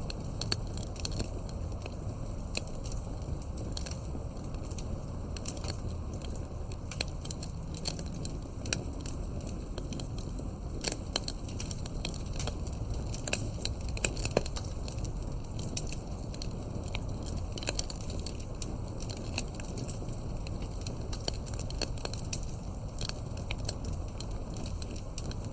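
Wood campfire crackling, with frequent irregular sharp pops and snaps over a steady low rush of burning.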